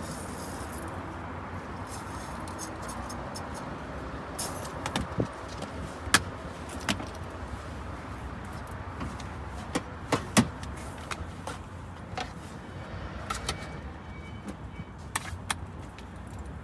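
Steady background of road traffic, with scattered light clinks and knocks of cups and barista equipment being handled, the sharpest about six and ten seconds in.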